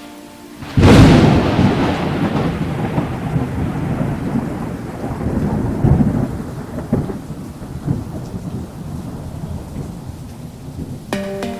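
A thunderclap: a sudden sharp crack about a second in, then a low rumble that rolls on and slowly fades over several seconds, with rain.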